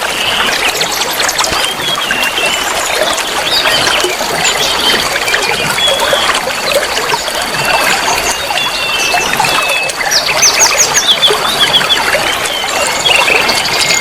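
Many songbirds chirping and trilling at once in a dense, busy chorus, with a thin steady high tone running through most of it from about four seconds in.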